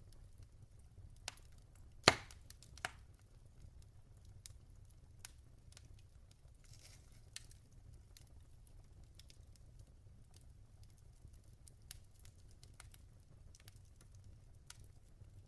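Burning logs in a fireplace crackling: sparse small crackles, with one loud pop about two seconds in and two smaller ones just before and after it, over a low steady rumble.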